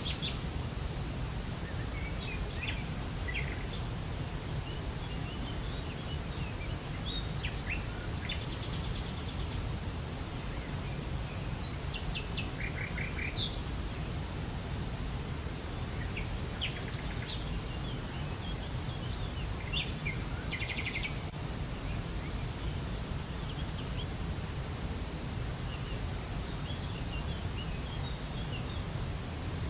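Steady rushing of a waterfall, with songbirds chirping and trilling over it in scattered short bursts.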